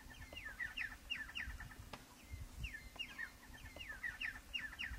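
Birds calling: clusters of short, high chirping notes, several a second, with a faint low rumble beneath.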